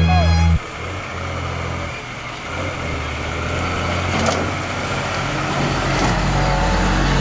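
Motor vehicle engine running steadily under road and wind noise, slowly growing louder; background music cuts off about half a second in.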